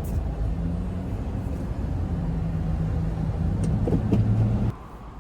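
Car engine running with a steady low hum, heard from inside the car; the sound drops sharply about four and a half seconds in.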